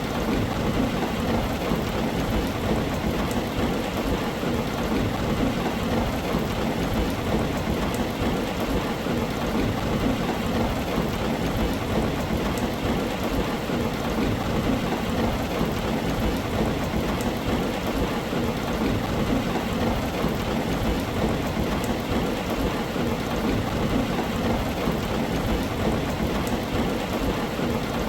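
Steady heavy rain falling on a tin roof, with a low, continuous rumble of thunder underneath. The level stays even, with no single thunderclap standing out.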